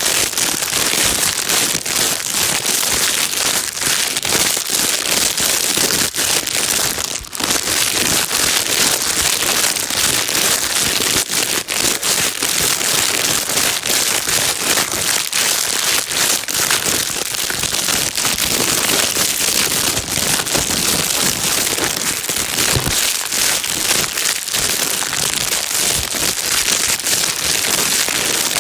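Plastic bag being crinkled and rustled continuously, a dense steady crackling used as white noise for calming a baby.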